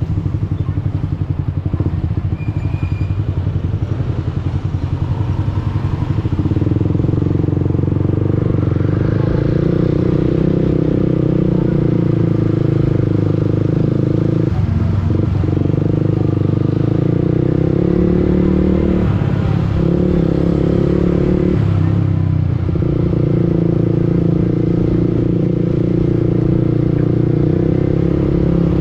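Yamaha R15 V2's single-cylinder four-stroke engine running while riding, heard from the bike itself: rough and pulsing for the first few seconds, then a steady note, with three brief dips midway.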